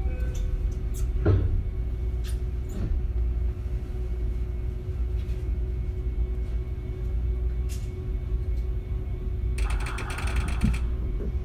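Running sound inside a JR West 271 series electric train at speed: a steady rumble of wheels on rail with a steady hum, and scattered clicks. About ten seconds in comes a brief, dense clatter of rapid clicks lasting about a second.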